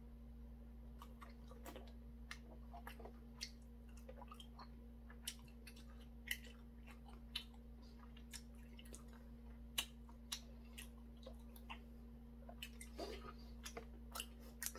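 A man chewing a mouthful of food with his mouth closed, faint soft clicks and smacks coming every half second or so, over a faint steady electrical hum.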